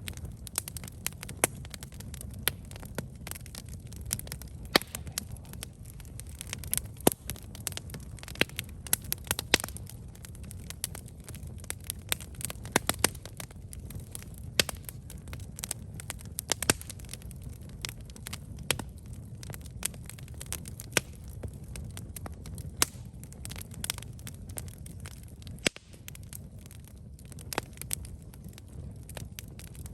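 Wood campfire burning: irregular sharp crackles and pops over a steady low rush of flame.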